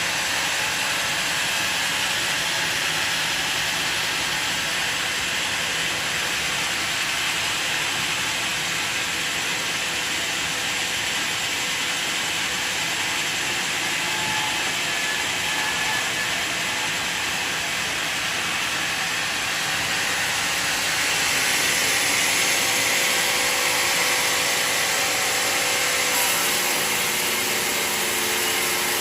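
Portable sawmill running steadily as it cuts through a mahogany log, a little louder about two-thirds of the way through.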